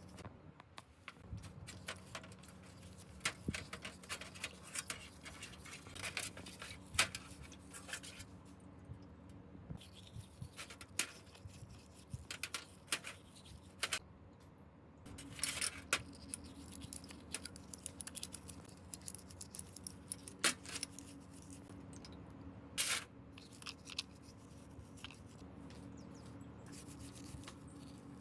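Hand work on small metal engine parts: irregular clicks, clinks and taps with brief scraping and rubbing, over a faint steady hum.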